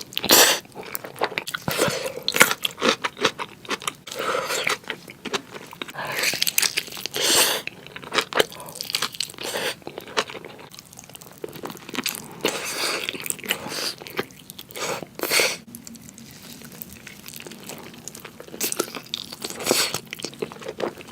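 Close-miked eating: a person taking crunchy bites and chewing, in irregular bursts with short pauses between them.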